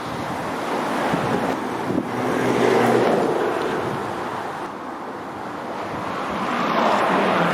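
Chevy Silverado pickup driving on a snowy road: a broad rushing of tyres and wind, with wind on the microphone. It swells and fades twice, loudest about three seconds in and again near the end, with a low engine hum underneath.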